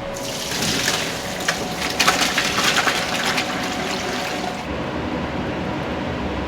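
Running water splashing, with fine crackles, at its fullest and brightest for the first few seconds and then carrying on more dully.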